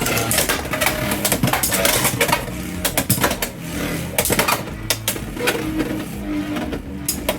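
Two Beyblade X spinning tops, Cobalt Dragoon and Hells Hammer, clashing in a stadium: a rapid, irregular run of sharp clacks and rattles as they hit each other.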